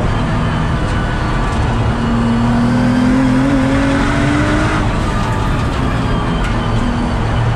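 Nissan GT-R R35's twin-turbo 3.8-litre V6 pulling hard at speed, heard from inside the cabin with heavy road noise. The engine note rises for about three seconds, then drops suddenly a little past the middle and carries on at a lower pitch.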